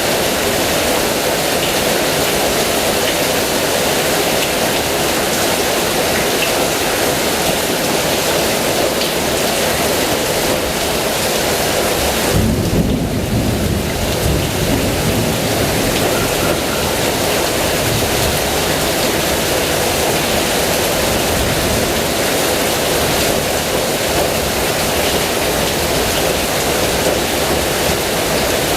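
Heavy rain falling steadily. About twelve seconds in, a low rumble of thunder rolls in for a few seconds under the rain.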